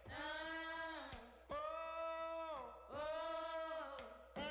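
Background music: a voice sings three long wordless notes of about a second each, each sliding down at its end.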